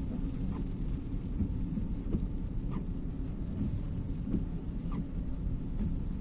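Car cabin noise while driving on a wet road in the rain: a steady low road and engine rumble with a light hiss and a few faint ticks.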